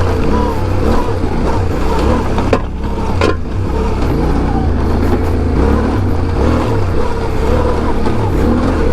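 Yamaha Ténéré 700's parallel-twin engine running under a steady low rumble, its pitch rising and falling as the throttle works while the bike is ridden through deep sand. Two sharp knocks stand out about two and a half and three seconds in.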